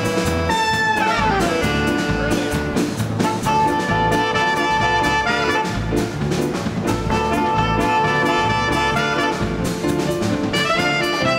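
Live dance orchestra of trumpet, trombone, saxophones, clarinet, string bass and drums playing a big-band number, with a falling slide in the horns about a second in.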